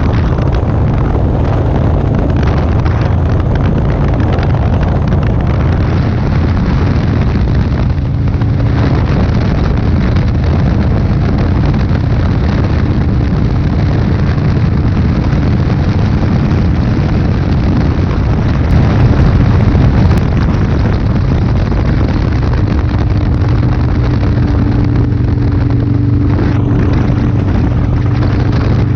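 Motorcycle engine running at road speed, buried in heavy wind rush on the camera's microphone. The engine's drone dips briefly about eight seconds in, and a steadier hum comes through near the end.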